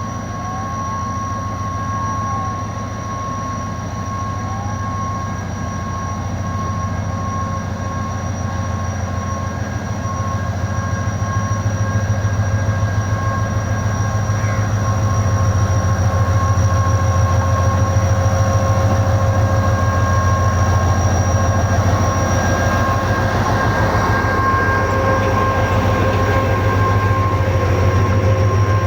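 Passenger train running on the track, a steady low hum with a few steady high tones, gradually growing louder.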